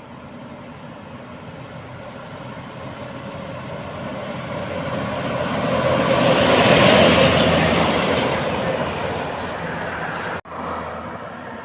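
A heavy truck passing by, its engine and tyre noise building up, loudest about seven seconds in, then fading away. A brief sudden break near the end.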